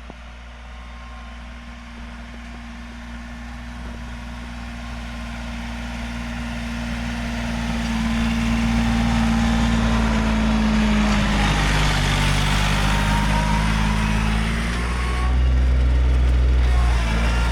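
Vehicle engine running and drawing closer, growing steadily louder over the first ten seconds or so. Its tone drops about eleven seconds in, and a heavier low rumble takes over near the end.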